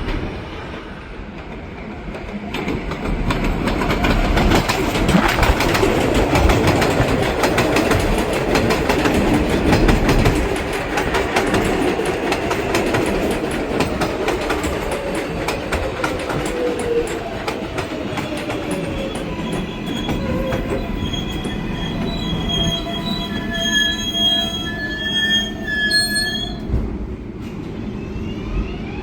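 A 7 train of R188 subway cars runs along the elevated Flushing Line with loud wheel clatter over the rails. The clatter builds over the first few seconds and eases after about ten seconds. High, steady wheel squeal follows and cuts off a few seconds before the end.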